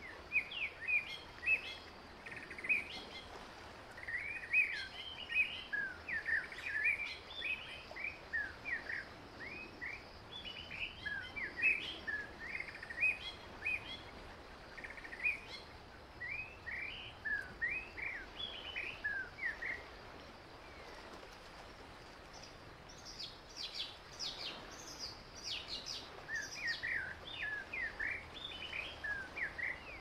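Wild birds chirping in many quick, short notes, with a thicker run of higher, sharper notes about three quarters of the way through, over a faint steady hiss of outdoor background noise.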